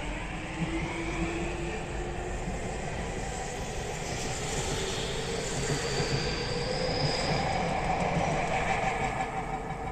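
Tokyu Toyoko Line electric commuter train running along the platform: a steady rumble of wheels on rail with a faint motor whine that rises slowly in pitch.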